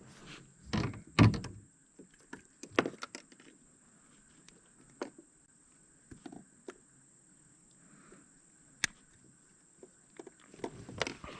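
Scattered knocks and clicks of fishing gear being handled against a kayak hull, several close together at the start, then single ones with quiet stretches between.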